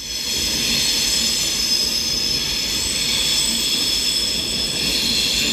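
Class 390 Pendolino electric train pulling out slowly, with a steady high-pitched squeal over a low rumble that swells up right at the start.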